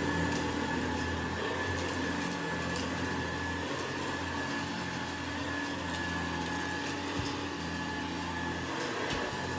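Hoover Model 70 convertible upright vacuum cleaner running steadily: an even motor hum with a steady high whine, and faint scattered ticks.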